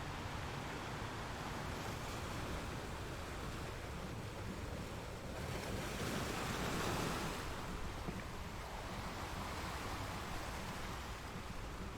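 Ocean surf, a steady wash of waves with one wave swelling and breaking louder about halfway through.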